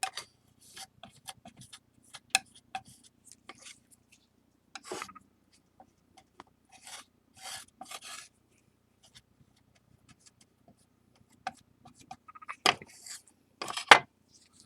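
Flour-and-water paste being mixed on a tray: a tool scraping and rubbing through the sticky dough in short, irregular strokes, with two louder scrapes near the end.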